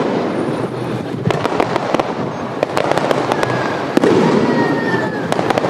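Fireworks display: shells bursting and crackling in quick clusters, with a heavier boom about four seconds in.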